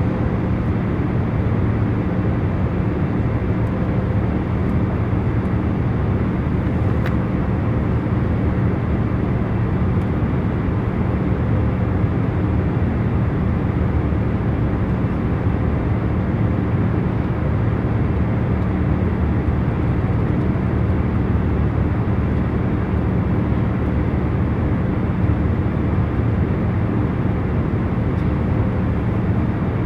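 Airliner cabin in cruise flight: a steady low rumble of engine and air noise with a constant hum running under it.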